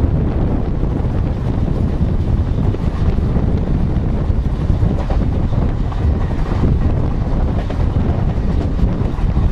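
Passenger train running along the track at speed: a steady, loud rumble of the coaches on the rails, mixed with wind buffeting the microphone held outside the coach.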